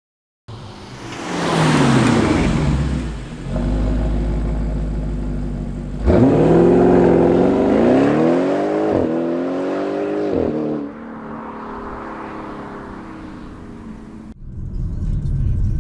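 Audi RS7 (C7) 4.0 twin-turbo V8 with an Akrapovič exhaust: a low steady idle, then a full-throttle launch about six seconds in, the pitch climbing through three quick upshifts as the car pulls away and fades into the distance. It opens with a falling whoosh, and near the end the sound cuts suddenly to a different low rumble.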